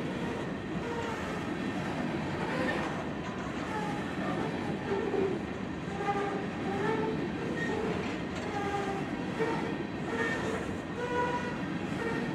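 Loaded-or-empty coal hopper cars of a freight train rolling steadily past at close range: a continuous rumble of steel wheels on rail, with short high squeals from the wheels and cars scattered throughout.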